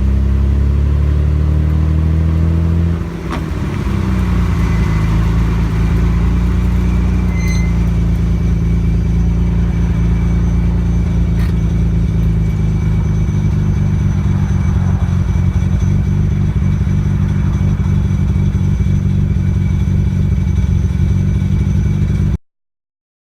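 Nissan Skyline GT-R R33's twin-turbo RB26 straight-six exhaust, recorded at the muffler while driving. The engine runs under load, dips briefly and drops in pitch about three seconds in, then holds a steady cruise.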